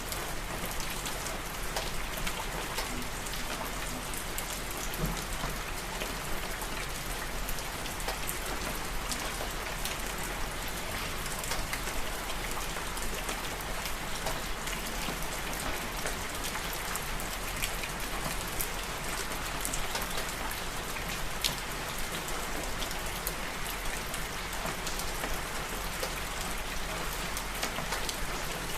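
Steady rain falling, with many fine individual drops pattering on a surface.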